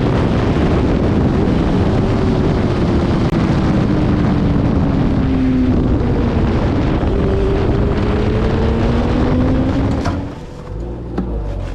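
Motorcycle engine running at speed on a racetrack under heavy wind rush over the microphone. Its note slowly falls and then climbs again, and about ten seconds in the wind rush drops away as the bike slows.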